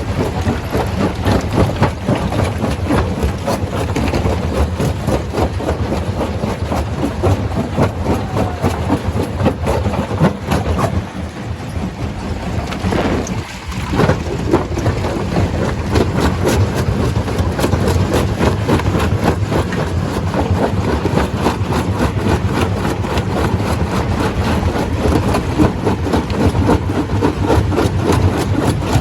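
Stone crusher running: a steady heavy engine drone under a dense, continuous clatter of rock being broken, easing off briefly about halfway before picking back up.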